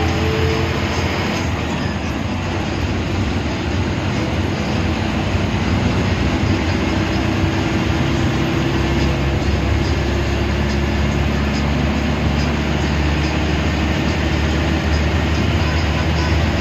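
Inside a moving bus: steady engine drone and road rumble, with the engine's pitch shifting slowly.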